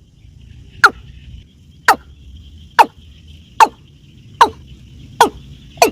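Watercock calling: a loud, sharp downward-sweeping note repeated about once a second, the series quickening near the end. A steady high insect hum runs behind it.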